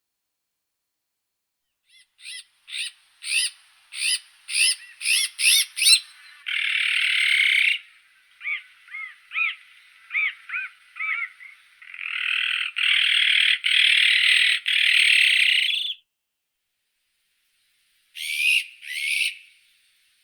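Azure-winged magpie calling: a quickening run of short notes that grows louder, then long harsh rasping calls with a few softer short notes between them, and two short harsh calls near the end.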